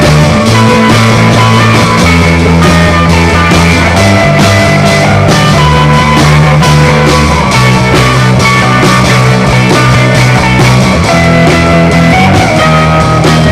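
Psychedelic rock music with a loud bass line and guitars, playing steadily with a regular beat.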